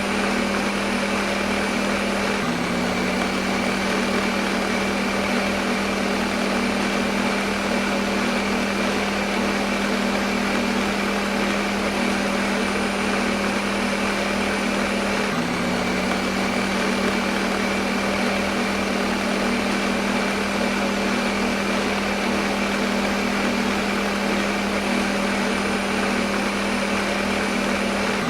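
Electric kitchen blender running continuously at one speed: a steady motor hum under a dense whirring hiss, with no change in pace.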